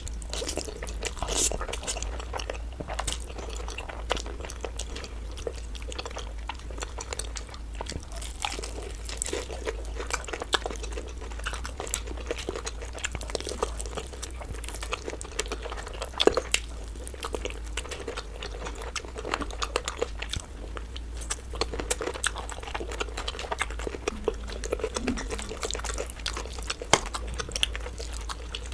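Close-miked eating: chewing and biting into black bean sauce noodles and sauce-glazed spicy fried chicken, a continuous run of small mouth clicks and smacks. A steady low hum runs underneath.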